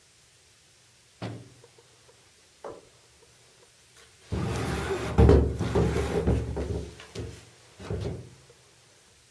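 Two short knocks, then about three seconds of loud, scraping handling noise, and one more knock near the end.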